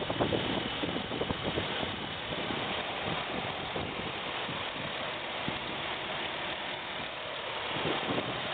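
2007 Jeep Wrangler engine running steadily, heard as an even, noisy rumble.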